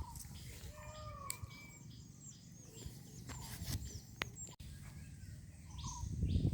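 Birds chirping and calling in many short whistled notes, with a few sharp clicks. A low rumble of handling noise builds near the end.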